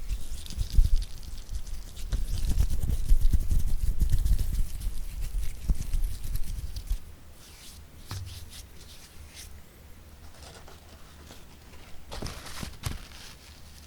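Hands tapping and rubbing close to the microphone, dense and heavy for about the first half, then sparse light taps with a short flurry near the end.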